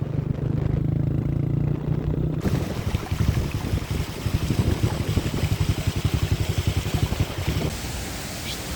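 An engine running with a steady hum, switching abruptly about two and a half seconds in to a fast, uneven pulsing; near the end it gives way to a steady rushing noise.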